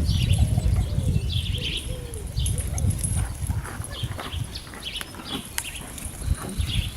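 Birds calling outdoors: short rising-and-falling calls and high chattering, over a low rumble that is loudest in the first couple of seconds, with a few sharp clicks near the middle.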